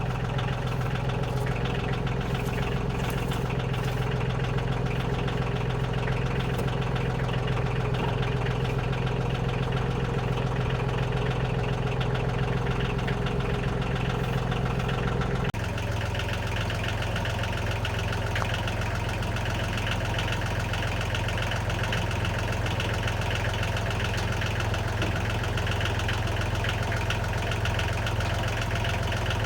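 An engine running steadily at a constant idle-like speed, with an abrupt small change in its tone about halfway through.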